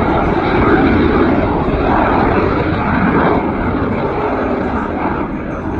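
Aircraft engine noise overhead, a loud steady rush that eases slightly near the end.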